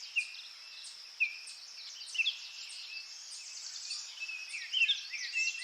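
Recorded birdsong ambience: short chirps and quick falling notes from small birds, about one a second and more crowded near the end, over a steady high hiss.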